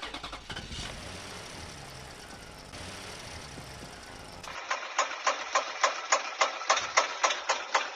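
Small engine running with a steady rumble, changing abruptly about halfway through to an even, rhythmic clatter of about four beats a second.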